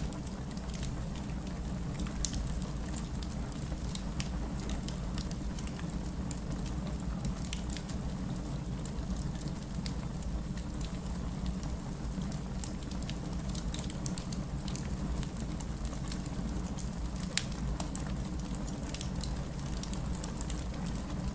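Wood fire burning in a fireplace, a steady low rumble of flames with scattered sharp crackles and pops of splitting wood, a few louder pops about 2 seconds and 17 seconds in.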